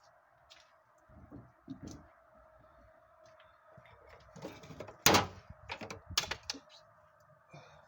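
Scattered clunks and knocks of car parts and tools being handled, with a cluster of sharper knocks from about four and a half seconds in, the loudest just after five seconds, over a faint steady hum.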